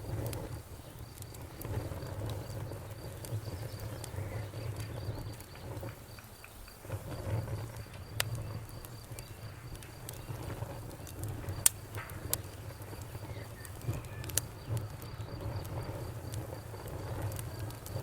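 Campfire crackling, with scattered sharp pops and snaps over a low, steady rumble of flame; two louder snaps come in the second half. A cricket chirps steadily in an even, high-pitched pulse throughout.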